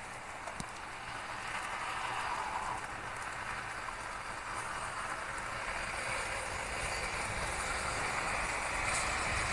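Steady rain falling during a thunderstorm, growing gradually louder, with a low rumble swelling underneath toward the end.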